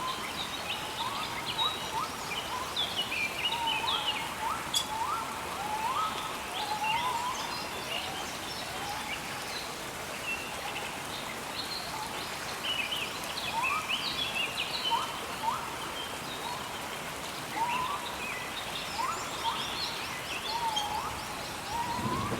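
Rainforest ambience: several birds calling, with repeated short rising whistles and quicker higher chirps, over a steady hiss.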